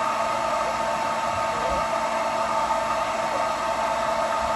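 Revlon hand-held blow dryer with a diffuser attachment running steadily, with a steady whine near 1 kHz over its airflow hiss.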